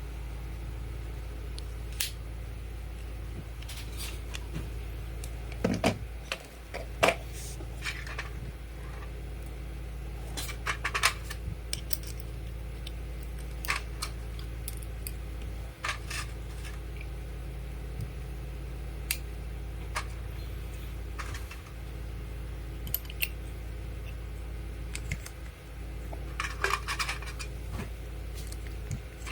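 Scattered metallic clinks, clicks and taps of small tool parts and hand tools being handled on a workbench, over a steady low hum. The clinks are busiest in a few clusters.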